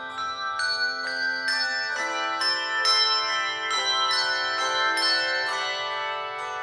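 A handbell choir playing a piece of music: struck bells, each note ringing on long and overlapping the next, with new notes sounding about every half second.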